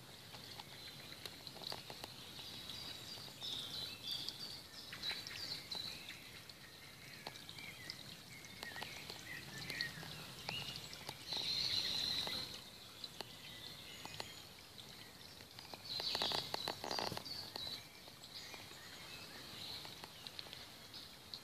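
Garden birds singing and chirping, with scattered short calls and two louder bursts of song, about halfway through and again a few seconds later.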